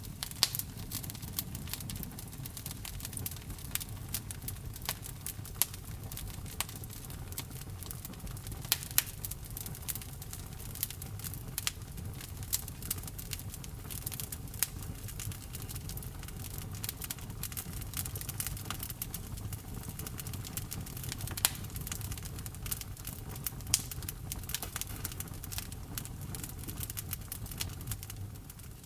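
Wood fire crackling in a fireplace: frequent sharp pops and snaps from the burning logs over a low, steady rumble of the flames.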